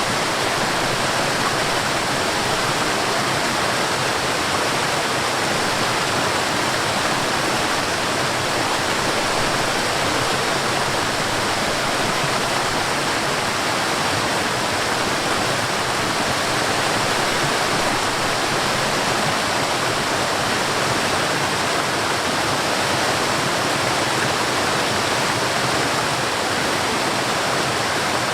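Forest waterfall: water falling and rushing in a steady, even roar with no breaks or changes.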